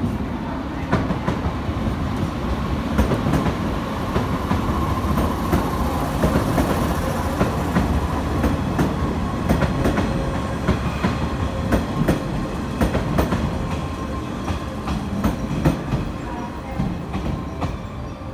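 Passenger train running past along the platform track: a steady rumble of wheels on rail with a rapid clickety-clack of clicks as the wheels cross rail joints, easing slightly near the end.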